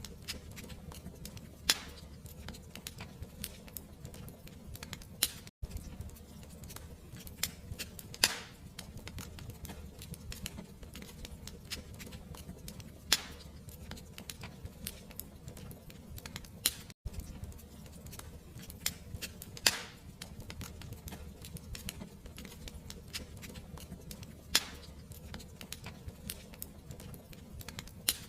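Fireplace fire crackling: a dense run of small crackles, a louder pop every few seconds, over a steady low rumble. The sound drops out for an instant twice.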